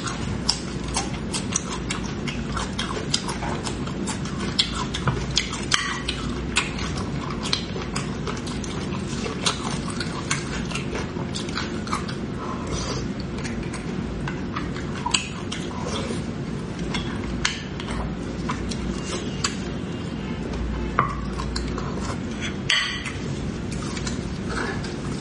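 Close-miked eating of braised beef bone marrow: wet chewing and mouth sounds with many short, sharp smacks and clicks all through, as marrow and meat are bitten off the bone.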